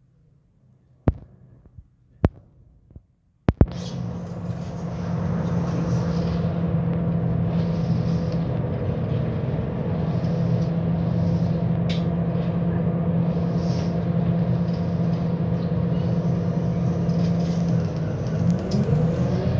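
Three sharp clicks, then a Scania K270UB bus's engine and ZF automatic gearbox start in abruptly and run loud and steady with a constant low hum. Near the end the sound dips briefly and a rising whine begins as the bus picks up speed.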